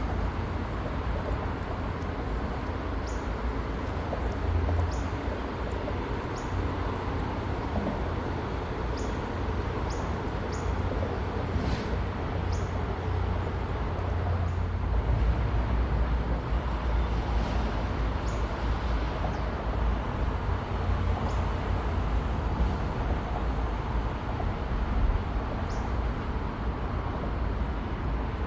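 Outdoor ambience: a steady low rumble and hiss, with short bird chirps every few seconds.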